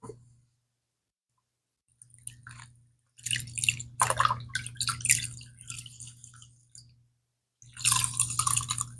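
Leather bag being scrubbed by hand with wet cleaner, squelchy rubbing strokes in three spells: a short one about two seconds in, a long one after that, and another near the end.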